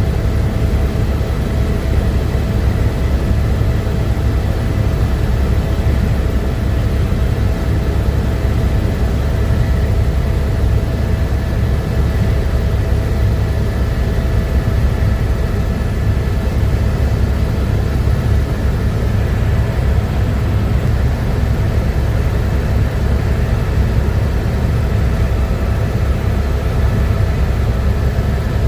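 Helicopter in flight: a steady, heavy low rumble from the rotor and engine, with a few steady whining tones above it.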